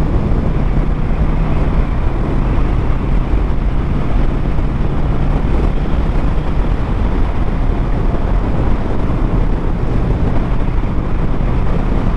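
Motorcycle riding at a steady pace: engine running under heavy wind rush on the microphone.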